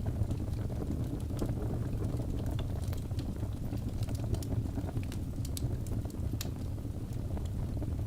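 Birch logs burning in a fireplace: a steady low rumble of flames with frequent sharp crackles and pops scattered throughout.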